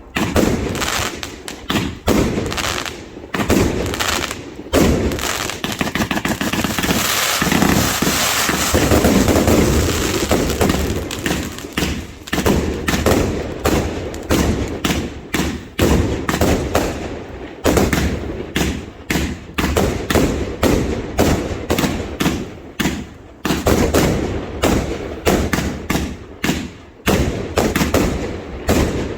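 A fireworks display going off in rapid succession: many sharp bangs and thuds, a few every second. About six to eleven seconds in they run together into a dense, almost continuous barrage.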